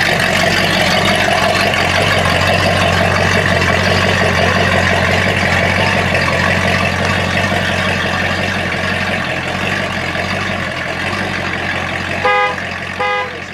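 Ford Galaxie 500's 390 V8 running as the car pulls slowly away, its sound fading over the last few seconds. Near the end a car horn gives three short toots.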